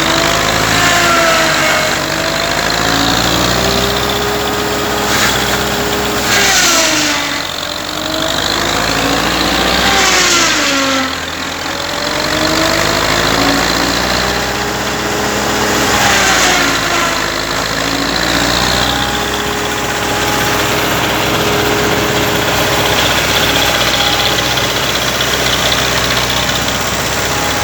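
Belarus 510 tractor's diesel engine running, its pitch rising and falling repeatedly as the engine speed changes, with a few short rushes of noise along the way.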